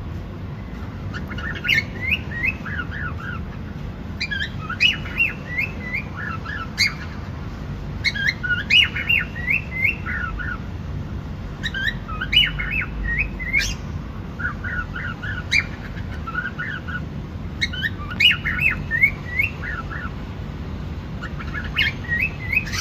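Cockatiel chirping in quick bursts of short, sliding notes that come back every two seconds or so, over a steady low background hum.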